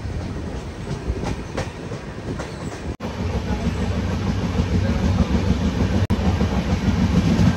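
Moving passenger train coach heard from its open doorway: a steady rumble and rattle of wheels on the track, with a few rail-joint clacks in the first couple of seconds. The sound cuts out for an instant about three seconds in and comes back with a louder rumble.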